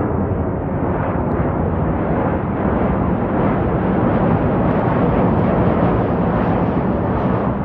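Jet airliner engines running: a loud, steady, deep rumble that builds slightly in loudness.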